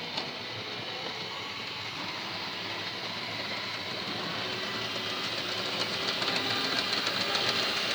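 Model train running on its track, the motor's whirr and wheel rumble getting steadily louder as it comes closer, with light clicks from the rail joints.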